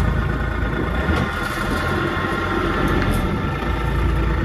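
Vehicle engine running steadily, just after being started.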